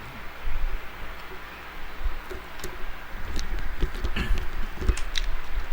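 Eating at close range: chewing, with scattered light clicks and a few soft knocks from handling food and utensils.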